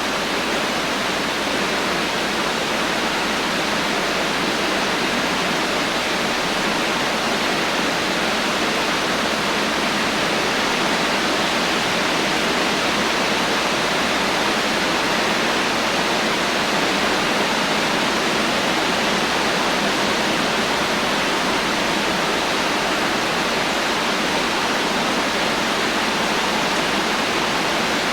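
Heavy rain falling steadily without thunder, a dense even hiss of drops with no individual splashes standing out.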